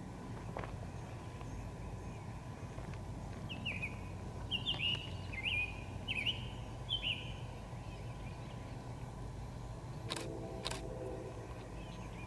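A songbird gives a quick series of about six short, falling chirps over a steady low rumble, the distant two-stroke diesel of an approaching EMD F40PH-2 locomotive. Near the end there are two short, sharp clicks.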